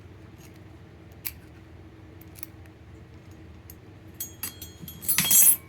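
Light metallic clicks of a small hand tool working tiny screws, then near the end a quick run of clicks and a loud metallic clatter with ringing as a small screw falls off the tool and bounces on a hard surface.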